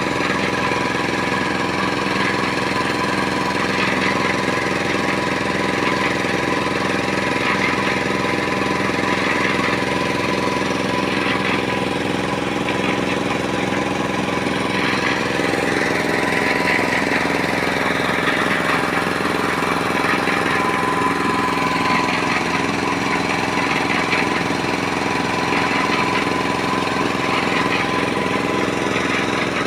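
Small engine of a portable drum concrete mixer running steadily at an even speed. The mixer is one the worker thinks seems somewhat broken.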